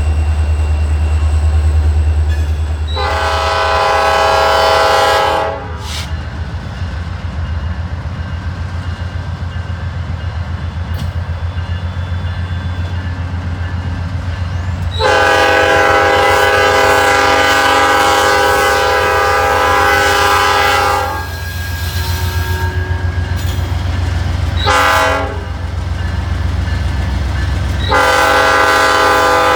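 Diesel locomotive's multi-chime air horn sounding two long blasts, one short and a final long one: the grade-crossing signal. Under it runs the steady low rumble of the locomotive's diesel engine.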